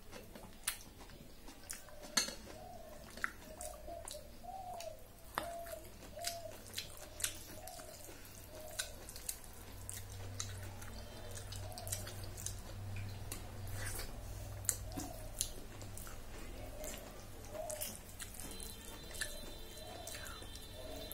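Close-up wet eating sounds: irregular lip smacks and sharp mouth clicks while chewing soft khichdi (rice and lentils), with the squish of fingers mixing the food on a steel plate.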